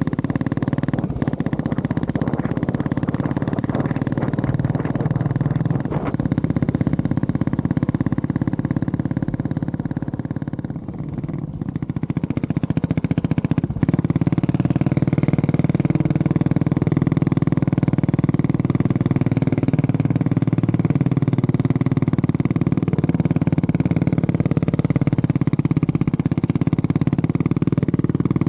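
Honda CB400SS single-cylinder engine running as the motorcycle is ridden. It eases off about ten seconds in, then pulls back up to a steady drone.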